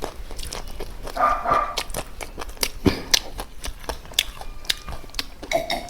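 Close-miked eating sounds: chewing and mouth clicks, many sharp clicks throughout, with a short pitched sound about a second in.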